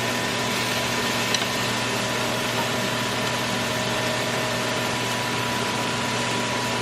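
Kitchen stove exhaust fan running: a steady rushing noise with a low hum and a faint steady whine.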